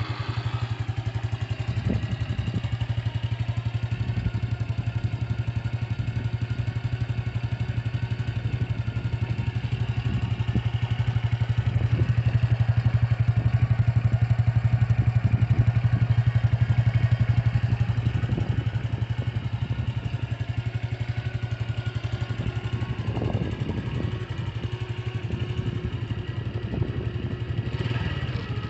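Honda Super Cub's single-cylinder four-stroke engine idling through an aftermarket Endurance muffler, a steady low exhaust beat. It gets a little louder for several seconds in the middle, then settles back.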